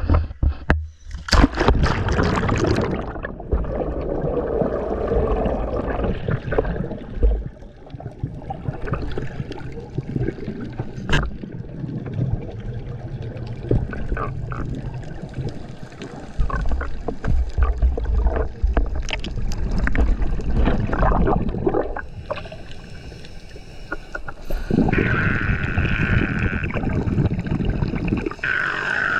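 Underwater water noise from a scuba diver's breathing, with surges of bubbling and rushing a few seconds long and scattered sharp clicks in between.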